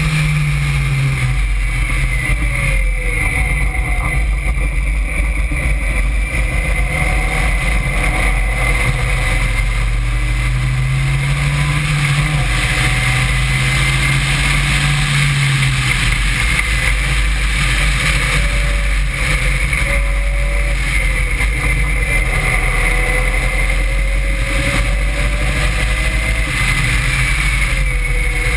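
Caterham Seven's engine pulling hard on track, its pitch rising and falling with the gear changes and corners, under heavy wind rumble on the open car's onboard microphone.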